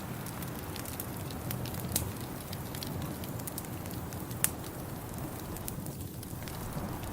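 Wood fire in a fireplace crackling, with scattered sharp pops over a steady low rumble; the loudest pop comes about four and a half seconds in.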